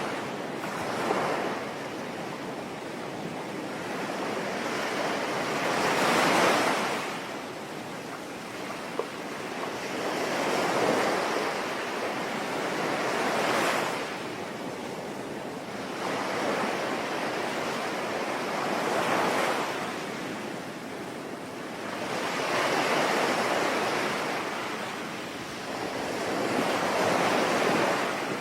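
Sea waves breaking and washing ashore in slow surges about every four to five seconds, over a steady hiss of rain.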